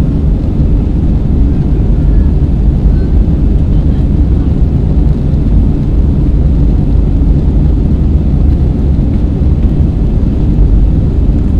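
Steady low rumble of an Airbus A320's engines and rushing air, heard inside the passenger cabin in flight.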